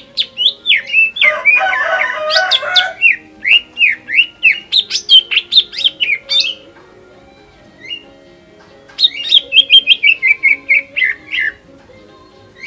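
Cucak ijo (green leafbird) singing a rapid run of loud, down-slurred whistled notes, with a dense burst of chattering notes about a second in. After a pause of a couple of seconds with a single note, a second fast series of notes steps down in pitch near the end.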